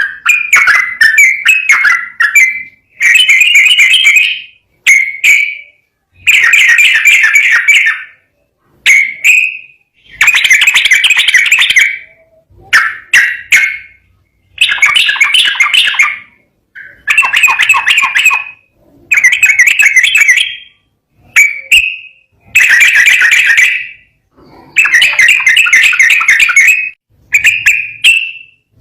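Sooty-headed bulbul (trucukan) singing loud, bubbly song phrases of one to two seconds each, about a dozen in a row with short pauses between them.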